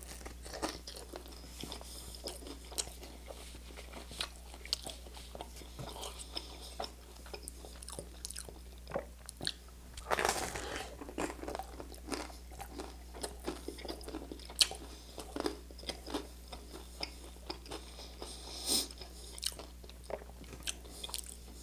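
Close-miked biting and chewing of toasted bread topped with canned pasta in tomato sauce, with many short crisp crunches. The loudest crunching comes with a big bite about ten seconds in, and there is another sharp crunch near the end.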